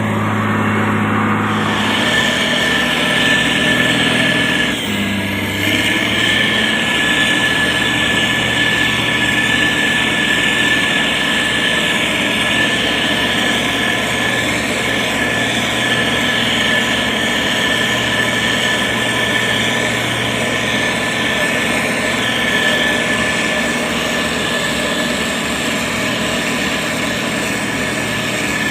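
Diesel engine of a SANY STG190C-8S motor grader running steadily at work, with a constant high whine over the engine hum.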